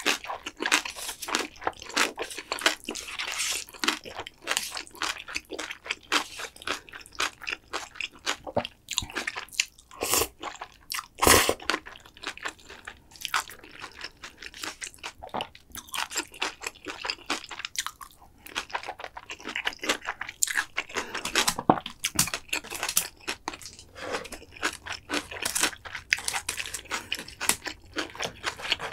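Close-miked eating: a person chewing mouthfuls of food with frequent crisp crunching and wet mouth clicks. There is one sharp thump about eleven seconds in.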